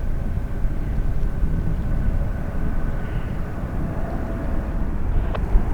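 Jet airliner's engines rumbling steadily as it passes, with a faint whine over the rumble.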